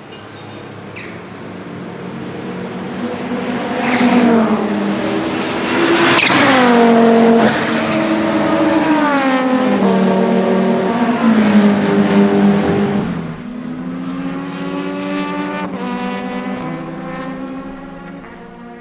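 Audi 200 Turbo Quattro's turbocharged 2.2-litre five-cylinder engine at racing revs, its pitch falling and rising again several times as it runs through the gears. It builds up over the first few seconds, is loudest in the middle, steps down in level about two-thirds of the way through, and then fades.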